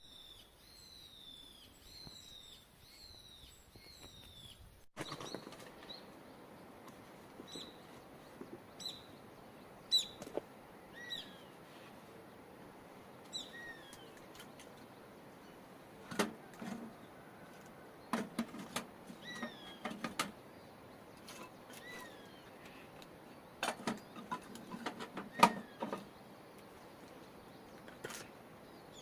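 Small birds chirping: a quick run of short falling calls at first, then scattered single chirps. Intermittent sharp knocks and clatter, in clusters and loudest about three quarters of the way through.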